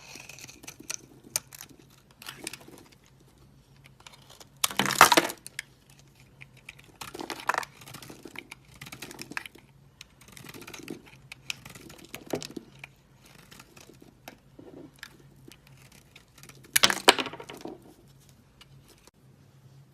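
Dry soap crackling and crunching under cutting or crushing, a run of crisp clicks with two louder crunches, one about five seconds in and one near the end.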